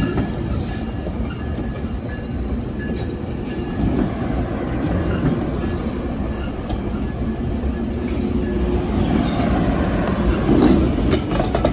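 Coaster commuter train running past on the rails, a steady heavy rumble with a faint high wheel squeal. Rapid repeated clicking of wheels over rail joints comes in near the end.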